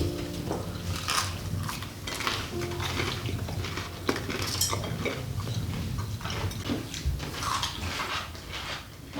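Irregular light clinks and knocks of cutlery and dishes, over a low steady hum.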